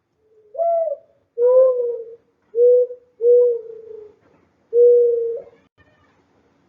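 A pigeon cooing: about five low, soft coos in a row, the last ending a little past halfway.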